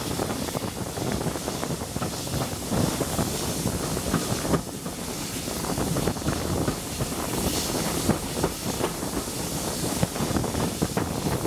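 Wind buffeting the microphone held out of the window of a moving steam-hauled train, over the rumble and irregular clatter of the carriages running along the track.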